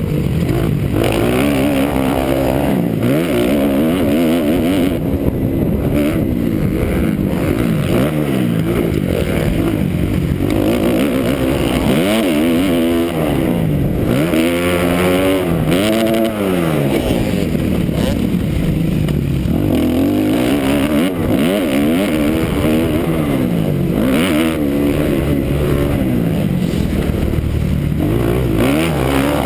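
2009 Kawasaki KX250F four-stroke single-cylinder motocross engine racing: revs climb and fall again and again every second or two as the rider opens the throttle, shifts and backs off.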